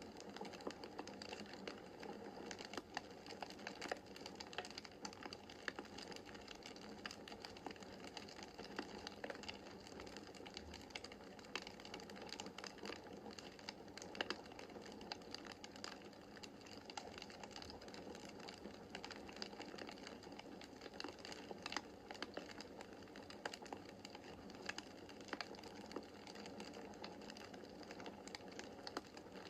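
Wood fire crackling in a fireplace: a dense run of small irregular pops and snaps over a soft steady hiss of the flames.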